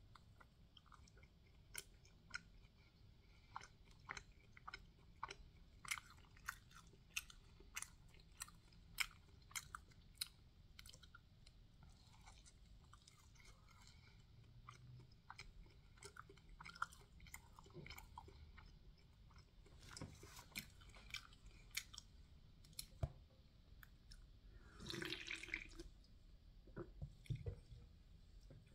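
Faint chewing of a soft, bready breakfast food: many small wet mouth clicks and smacks, thickest in the first half. About 25 seconds in comes a longer, noisier sound.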